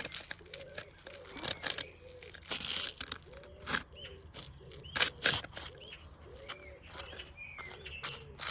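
Washing machine under test clattering and clicking irregularly, with short repeated squeaks and a few sharper knocks; it is holding together rather than breaking apart.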